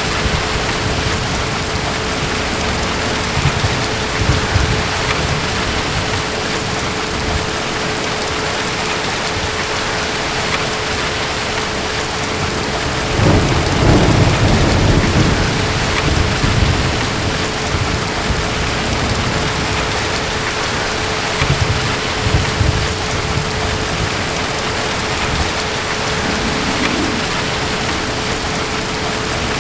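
Steady heavy rain with distant thunder rumbling low several times, the longest and loudest rumble about halfway through. A faint steady hum sits under the rain.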